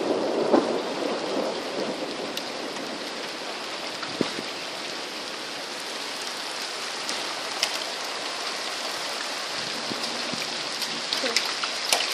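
Heavy rain falling steadily in a thunderstorm. A low rumble of thunder fades away over the first couple of seconds, and occasional sharp taps come through the rain, more of them near the end.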